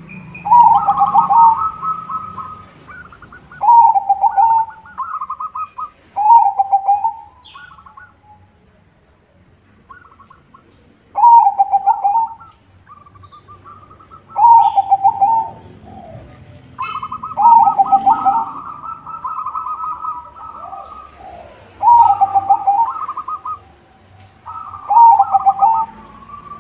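White zebra dove (perkutut) singing its rhythmic cooing song: loud phrases of rapid, trilled coo notes come about every three seconds, about eight times, with softer cooing phrases in between.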